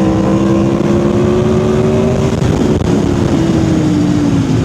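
Aprilia Tuono V4R's V4 engine running on the road, its pitch creeping up over the first two seconds, breaking briefly, then falling slowly near the end.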